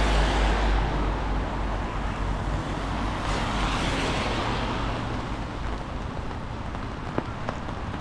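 Road traffic going by on a wet town street: a steady hiss and low rumble that is loudest at first and slowly fades, with two small clicks near the end.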